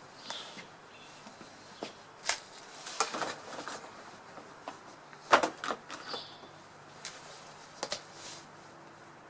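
A few short, faint bird chirps among scattered sharp clicks and taps, the loudest tap a little after five seconds in.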